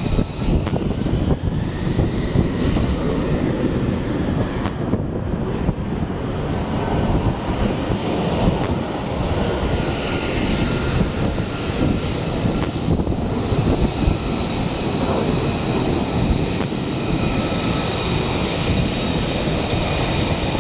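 Jet aircraft engine running steadily: a heavy rumble with a thin, steady high whine over it.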